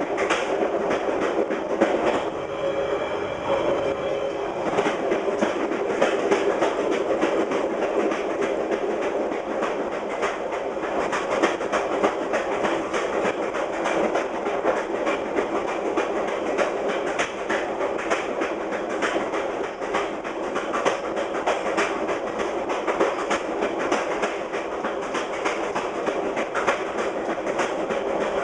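VIA Rail passenger train running fast over jointed rail, its wheels clicking steadily over the rail joints, heard from the rear of the last car.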